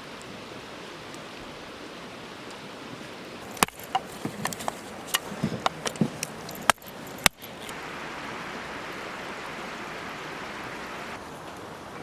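Steady outdoor hiss, with a run of sharp clicks and knocks of something being handled starting about four seconds in; the two loudest knocks come a little past the middle.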